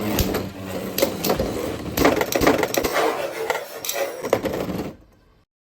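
Spinning tops clattering and knocking together in a plastic stadium, with many irregular sharp clicks; the sound fades and cuts off about five seconds in.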